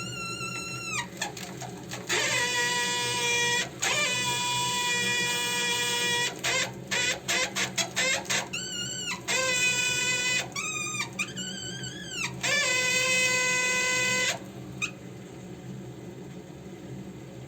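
Protherm combi boiler's three-way valve giving off a loud, pitched whine in stretches of a second to a few seconds, starting and stopping. In the middle it stutters in quick on-off pulses. About 14 seconds in it stops, leaving a low steady hum. The owner blames the noise on the three-way valve.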